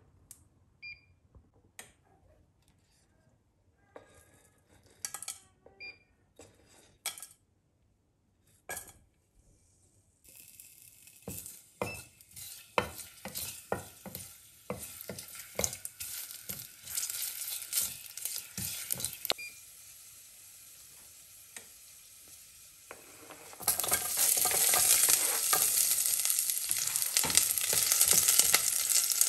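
A few light clicks and taps in a stainless steel pot. Then dried chillies and ginger slices sizzle in oil while a spatula taps and scrapes the pot. About three quarters of the way in, a louder, denser sizzle sets in as garlic fries in the oil.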